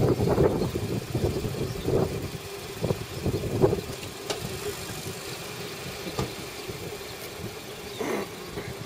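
Nissan Versa hatchback's petrol engine running at low speed, a steady hum as the car creeps up close and then backs away. Wind buffets the microphone in the first few seconds.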